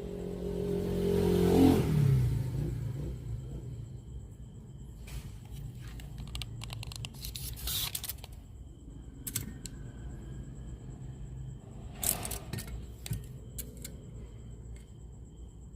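A pitched sound with several overtones slides down in pitch and dies away about two seconds in, then scattered clicks and scrapes from handling the cassette player.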